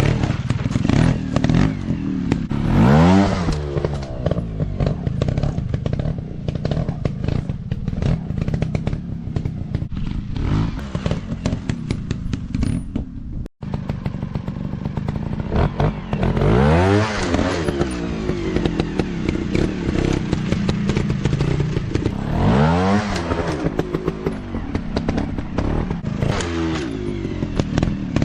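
Off-road dirt bike engines running hard, revving up and down repeatedly with several sharp rises in pitch, with clattering and thuds from the bikes over rough ground.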